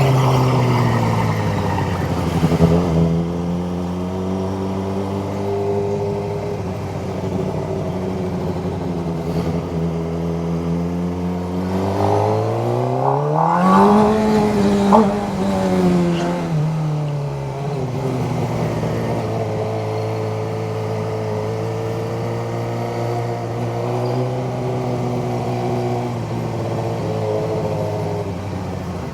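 Suzuki GSX-R sport bike engine under way: the revs drop at first and hold steady, climb to a peak about halfway through, then fall back and settle at a steady cruise.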